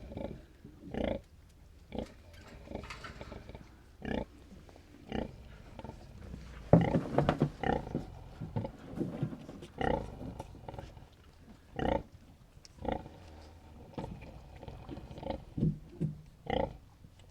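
Sow grunting in short, regular grunts about once a second, with a louder, longer burst about seven seconds in.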